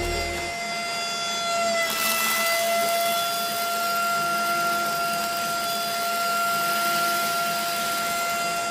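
Small electric motor running with a steady high whine; about two seconds in a hiss grows louder alongside it.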